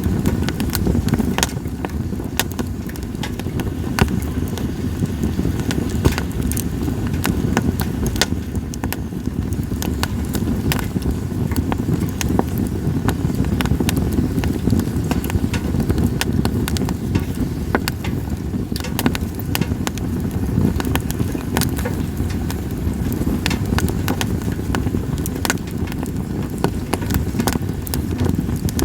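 A campfire of split sawtooth oak (kunugi) firewood burning, crackling with many irregular sharp pops over a steady low rumble.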